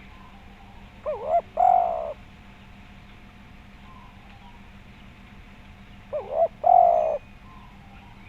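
Spotted dove (tekukur) cooing with a full, round voice: two phrases about five seconds apart, each a quick pair of short wavering notes followed by one longer, louder coo.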